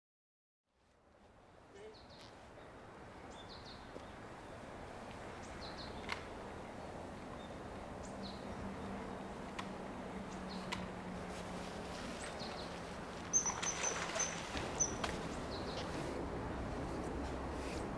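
Short, high bird chirps scattered over a steady background of outdoor ambience, with a quick run of five or six shrill high notes just past the middle.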